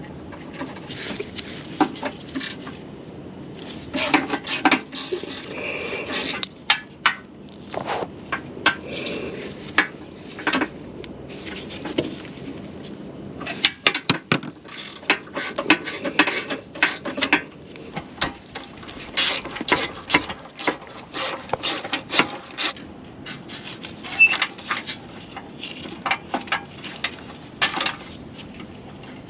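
Hand tools and metal parts handled during car repair: irregular clicks, clinks and knocks, some in quick runs, over a low steady hiss.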